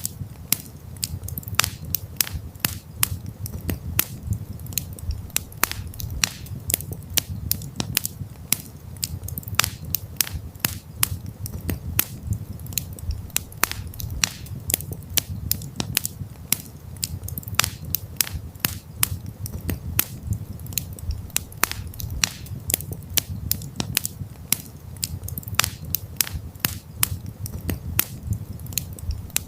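Wood campfire crackling: irregular sharp pops and snaps, several a second, over a steady low rumble of burning flames.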